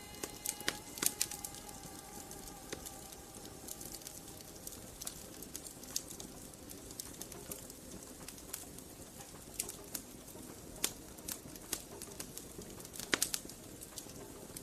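Wood fire burning in a fireplace, crackling with irregular sharp pops over a low steady hiss, with a quick flurry of pops near the end.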